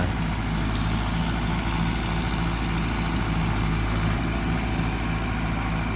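An engine running steadily at a low, even pitch with a regular throb, as from the machine hauling treetops on its fork.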